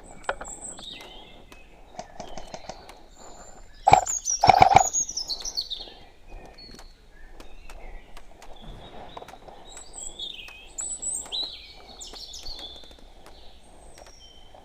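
Small birds chirping and calling in short high phrases, outdoors. About four seconds in comes a quick run of sharp clacks, the loudest sound, and faint clicks are scattered throughout.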